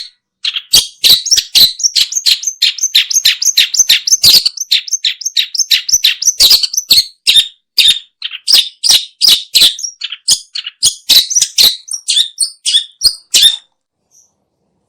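Long-tailed shrike calling in a fast, unbroken run of short, scratchy chattering notes, several a second, that breaks off near the end.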